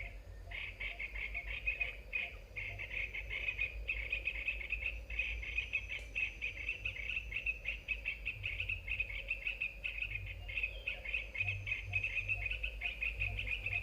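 A continuous chorus of calling animals: a fast, dense chirring trill that never pauses, over a low rumble.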